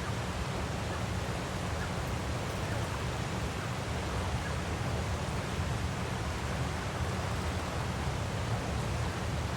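Waterfall rushing steadily, an even hiss with a deep low rumble and no changes or breaks.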